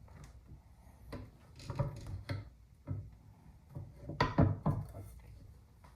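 Rifle parts being handled and fitted together: a few short knocks and scraping rubs, the loudest about four seconds in.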